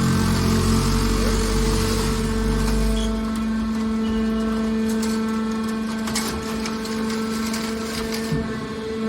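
Hydraulic metal baler running: a steady hum from its hydraulic power unit throughout. A deep rumble drops away about three seconds in, and a few sharp metallic knocks come past the middle.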